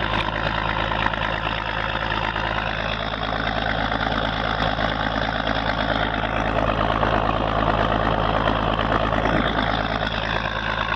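Motorboat engine running steadily at a constant pitch, with the rush of water, as the boat tows kayaks along the river.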